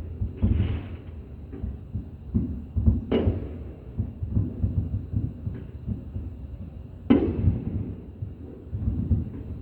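Fireworks booming: a steady run of low thuds and rumbling, with two sharper bangs about three and seven seconds in.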